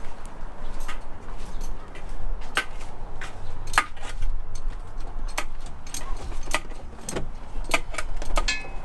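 Irregular sharp metallic clicks and clinks, about a dozen, over a steady low rumble.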